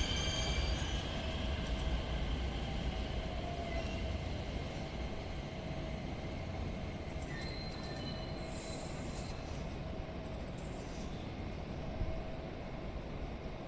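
A train rolling past on the rails with a steady low rumble, its wheels squealing in high thin tones that are strongest early on and fade as the train moves off.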